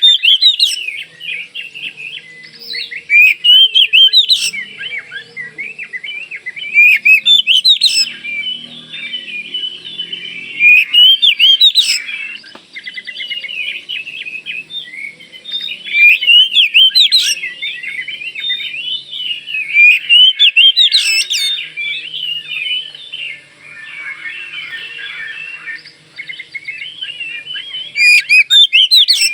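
Kalimantan oriental magpie-robin (kacer) singing continuously in varied, rapid whistled phrases. About every four seconds a loud, full-voiced burst stands out.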